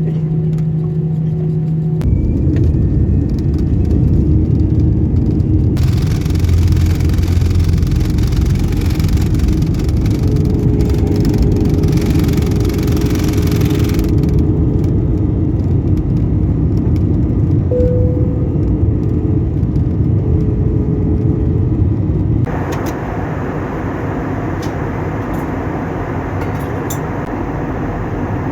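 Airliner cabin noise: a loud, steady rumble of engines and rushing air. It changes abruptly in tone and loudness a few times, as separate clips are spliced together.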